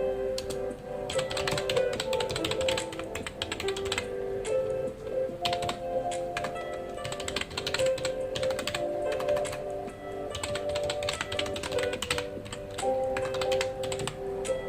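Typing on a computer keyboard: quick runs of key clicks in bursts with short pauses, over background music with sustained notes.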